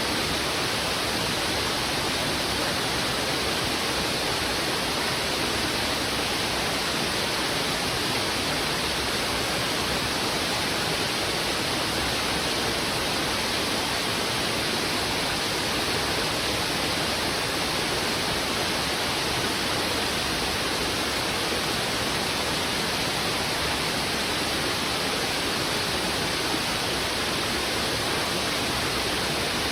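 Fast, heavy river current rushing over rocks: a loud, steady, unbroken rush of water.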